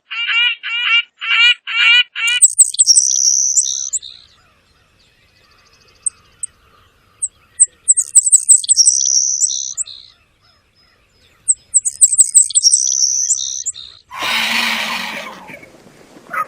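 Recorded birdsong. First comes a quick series of repeated whistled notes, about four a second. Then a high song phrase, a run of rapid chips followed by a held buzzy note that drops lower, is sung three times with pauses between. Near the end there is a loud, harsh, noisy call about a second and a half long.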